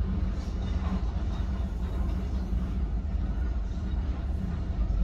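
Freight train of covered goods wagons rolling past, giving a steady low rumble, heard from inside a car.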